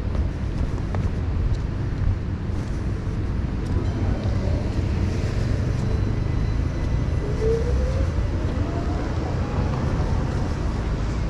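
Low, steady rumble of vehicles, with a faint rising whine a little past the middle.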